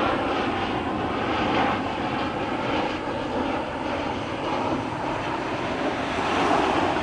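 Airliner engine noise, a steady rushing drone at a near-constant level.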